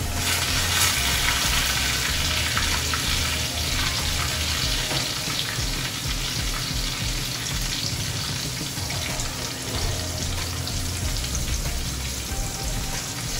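Egg-covered eggplant for tortang talong frying in a pan, a steady sizzle with fine crackles, loudest for the first few seconds.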